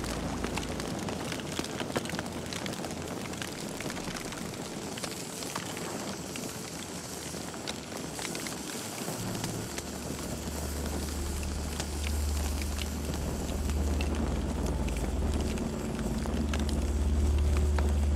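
Campfire crackling and popping over a steady hiss of burning wood. About halfway through a low rumble comes in and swells, growing louder toward the end.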